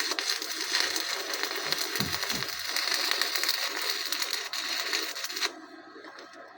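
Electric arc welder crackling steadily as a weld is laid to fix a broken sprayer bracket; the arc cuts off about five and a half seconds in.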